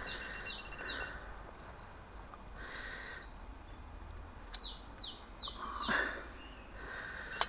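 A bird calling in quick runs of short descending notes. A broader scrape or knock about six seconds in is the loudest moment.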